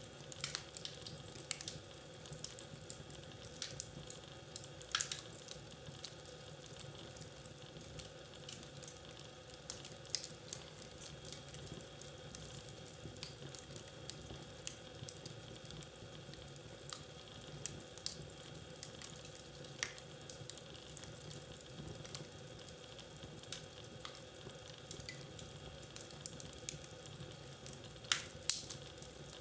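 Wood fire crackling in a fireplace: a steady soft hiss with frequent irregular sharp pops and snaps, one of the loudest pops near the end.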